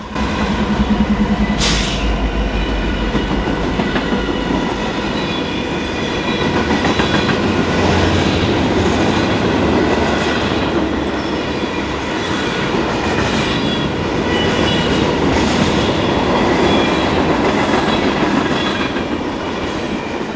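A long freight train passing close by. Its diesel locomotives give a heavy low rumble in the first few seconds, with a sharp bang just under two seconds in. Then the cars roll past with a steady loud rattle of wheels on rail and faint high steady tones over it, which fade out at the end.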